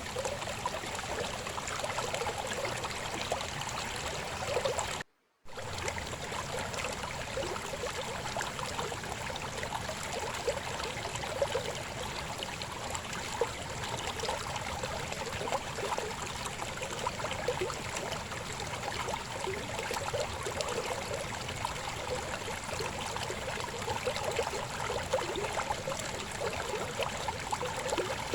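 A river babbling over rocks: a steady rush of water with many small gurgles and splashes. About five seconds in, the sound cuts out completely for a fraction of a second, then resumes.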